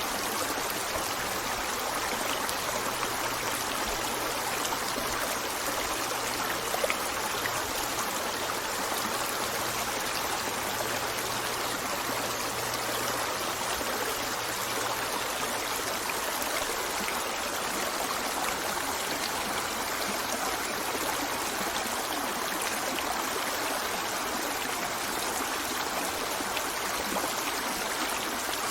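A river running steadily over stones, an even rushing with a light trickling and gurgling texture.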